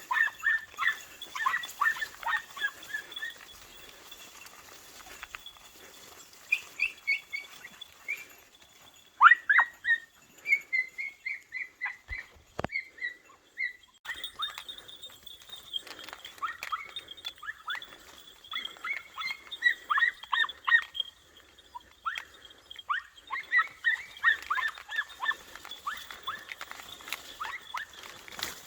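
Podenco pups giving tongue on a rabbit's scent: runs of quick, high-pitched yelping barks, broken by a couple of short pauses.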